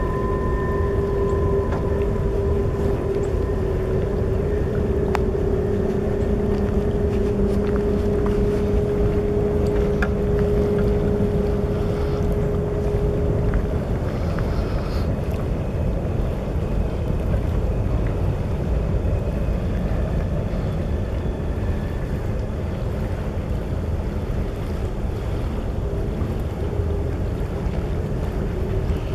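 A freight train's cars rolling past at a distance: a steady low rumble, mixed with wind on the microphone. A faint steady hum sits over it and fades out about halfway through.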